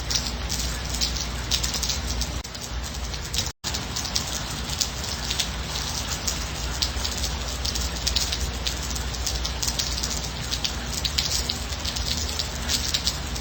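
Steady rain, with many separate drops ticking on a surface over an even hiss. The sound cuts out completely for an instant about three and a half seconds in, then resumes.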